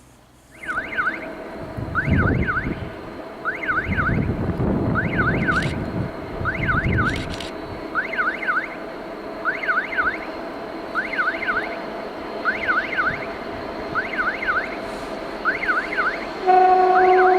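A railway level-crossing warning signal warbling electronically in repeated groups of quick rising-and-falling tones, about one group every one and a half seconds. Wind buffets the microphone between about two and seven seconds in. Near the end the 2TE116 diesel locomotive's horn starts to sound a steady two-note chord.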